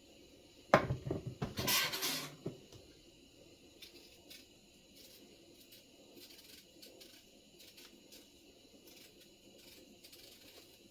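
Pots and kitchen utensils clattering about a second in: a sharp knock and a quick run of knocks, then a short noisy scrape or hiss. Faint small clicks follow.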